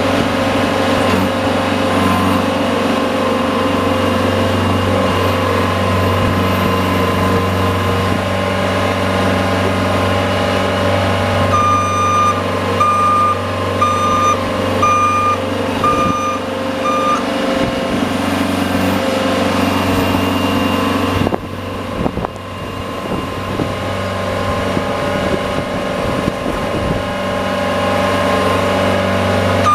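A snow-plowing vehicle's engine running steadily under load. Near the middle, a reverse-warning beeper sounds about six times, about one beep a second, as the vehicle backs up.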